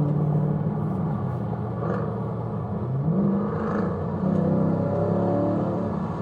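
Car engine running, with the revs rising about three seconds in and again around four seconds in.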